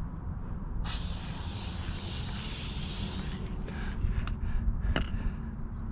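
Aerosol chain lube sprayed onto a motorcycle chain in one steady hiss of about two and a half seconds, followed by a few light clicks.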